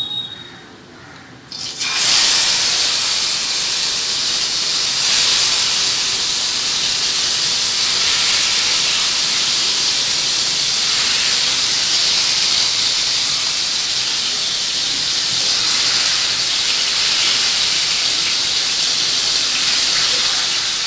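Marinated chicken pieces frying in hot mustard oil in a steel kadai: a loud, steady sizzle that starts suddenly about two seconds in.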